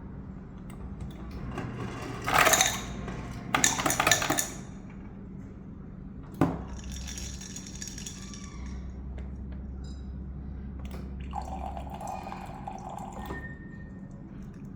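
Ice cubes from a refrigerator's automatic ice maker clattering into the bin, in two loud bursts about two and four seconds in, followed by a sharp click and, near the end, a short hum, over the steady low hum of the fridge.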